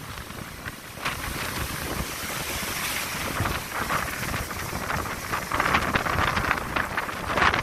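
Wind buffeting the microphone over the rush of sea waves breaking on the shore, swelling in surges every second or two.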